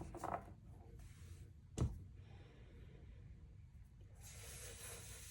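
Quiet handling of a deck of oracle cards: one sharp tap about two seconds in, then a soft, steady rustle of the cards being shuffled by hand from about four seconds in.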